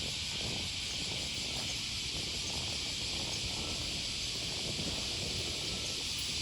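Cicadas buzzing in a steady, dense chorus, with an uneven low rumble underneath.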